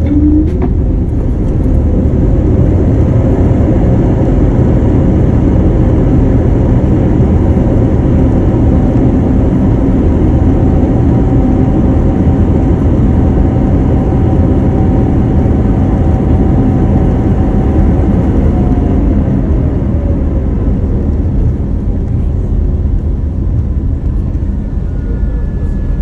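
Cabin noise of an Airbus A321neo with Pratt & Whitney geared turbofans around landing: a loud, steady rush of engines and airflow. A held engine tone falls away about 18 seconds in, and the noise eases off toward the end.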